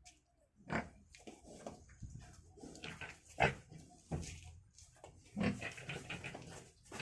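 Domestic pigs grunting: a string of short irregular calls, the loudest about halfway through.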